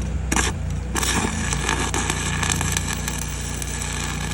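Stick-welding arc tacking structural steel: a short crackle as the arc is struck, then a steady crackling sizzle from about a second in. Under it, the welding rig's engine drones steadily, having picked up load as the arc struck.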